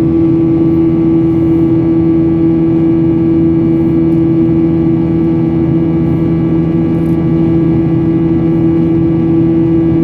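Jet airliner's engines running with a steady, loud drone and a held low hum.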